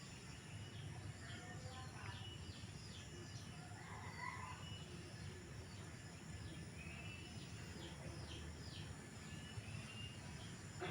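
Faint outdoor ambience: birds chirping in short, quick, repeated calls over a steady low background hum.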